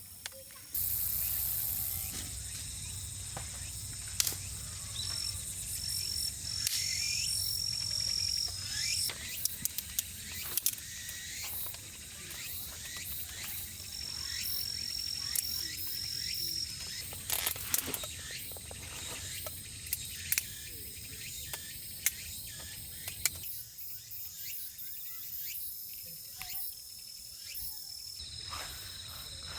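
Insects chirping in short, steady, high-pitched trills that come and go, over a low rumbling background, with many scattered sharp clicks and knocks throughout.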